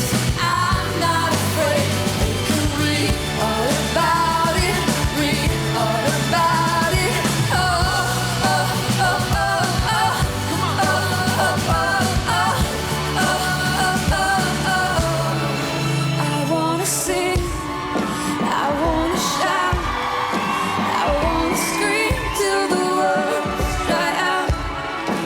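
Live pop duet: sustained wordless sung 'oh' lines over full band backing. The steady low bass part drops out about two-thirds of the way in, leaving the voices with a few sharp percussive hits.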